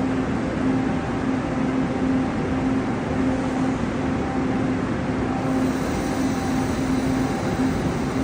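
A train running steadily: an even rumble with a low, steady hum.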